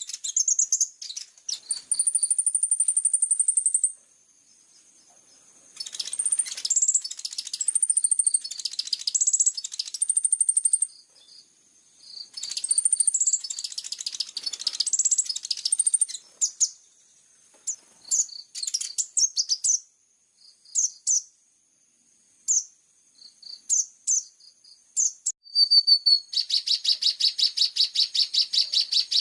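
Small songbirds singing high, fast chirping phrases and trills, a bird-song training recording used to teach fill-in phrases to kolibri ninja sunbirds. The phrases come in bursts with short pauses and thin out to scattered single notes around the middle. Near the end they give way to a long, rapid, loud trill.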